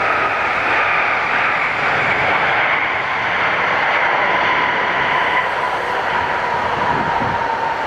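Boeing 777 airliner's jet engines on arrival: a loud, steady rush with a whine that slowly falls in pitch.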